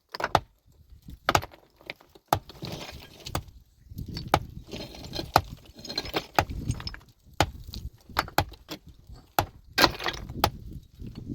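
Irregular sharp knocks of tools striking rock, with stones and rubble clattering and scraping between the blows.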